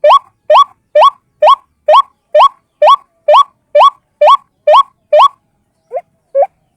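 A single white-breasted waterhen (ruak-ruak) calling: a repeated short note that slides upward in pitch, about two a second. Near the end it breaks off briefly, gives two fainter notes, then resumes.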